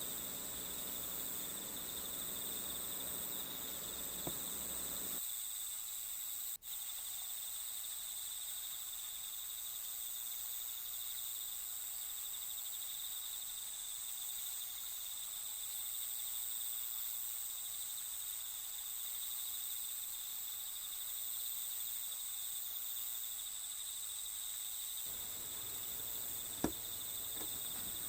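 Crickets chirring steadily, a high, continuous insect trill from a nature-sound background track, with one short click near the end.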